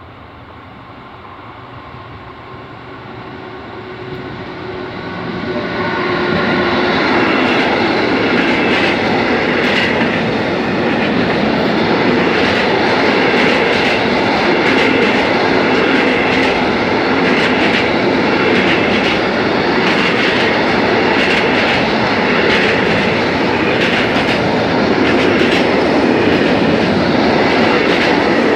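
A freight train approaching and passing at close range, growing louder until about six seconds in, then a long rake of container and tank wagons rolling by with a steady rumble and the clickety-clack of wheels over rail joints.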